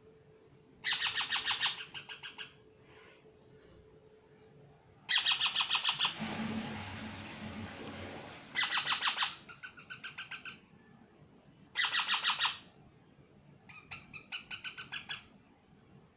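Pet parrot squawking in harsh, rapid pulsed bursts of about a second each, six times with short pauses, some bursts softer than others. A rushing noise fills the gap after the second burst.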